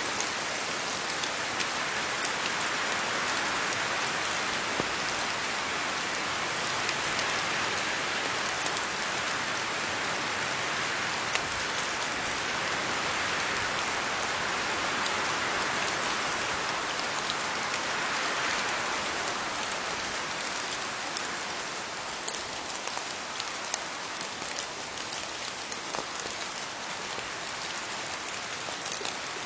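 Steady rain falling on leaves, a continuous hiss with scattered sharp drop ticks, easing slightly about two-thirds of the way through.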